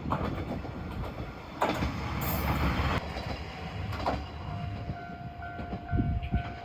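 Diesel railcar running on the track: a low rumble with scattered knocks and clicks, a burst of hiss about two seconds in, and from about halfway a steady high whine with a higher tone pulsing on and off over it.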